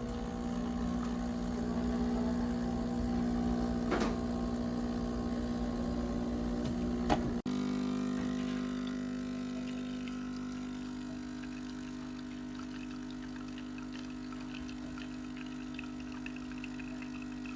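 De'Longhi Dedica Arte espresso machine's pump buzzing steadily as it runs, with a few sharp clicks in the first half and a faint high whistle rising near the end.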